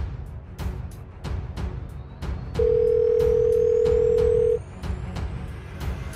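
A telephone ringback tone: one steady tone held for about two seconds, starting a little before halfway. It sounds over tense background music with a regular ticking beat, a low rumble and a slowly rising whine.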